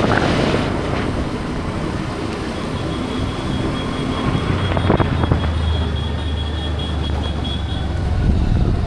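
Motor vehicle running on a road amid traffic noise. A steady low engine hum comes in about halfway, with a faint thin high whine over the middle.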